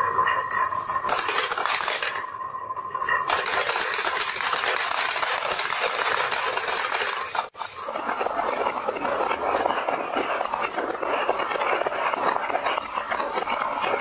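Many marbles rattling and clattering as they roll down a marble run track, a dense, continuous clinking. A steady tone sounds over it for the first three seconds or so.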